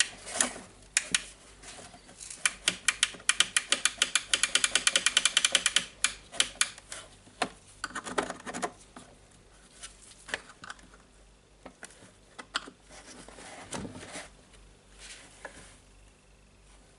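Clicks and knocks of hands working the plastic parts of a DeWalt site radio, trying to get a knob off. In the first half comes a quick, even run of about nine clicks a second; after that the clicks and knocks are scattered.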